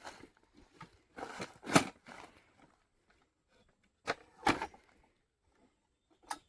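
A few short, separate rustling and scraping sounds with quiet between them, the loudest about two seconds in.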